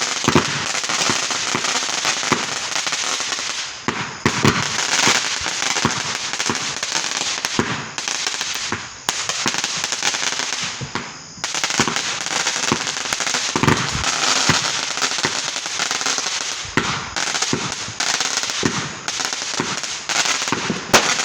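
Fireworks going off in a dense, rapid run of bangs and crackles, nearly continuous, with a few brief lulls.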